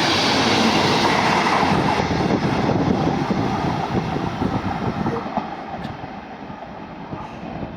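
A train running past on the rails, a loud rushing and clattering of wheels that fades away over the last few seconds as it moves off.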